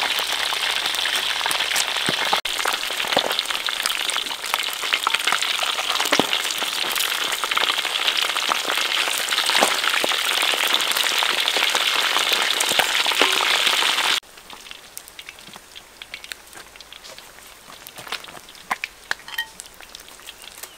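Frog pieces frying in hot oil in a steel wok, a loud dense sizzling and crackling, stirred with a metal spatula. About two-thirds through it cuts off suddenly to a much fainter sizzle with scattered small clicks.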